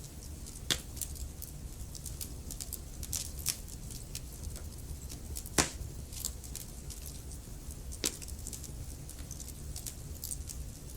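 Wood fire crackling in a fireplace: a steady run of small irregular crackles over a low rumble of flames, with sharper pops about a second in, midway, and a little later.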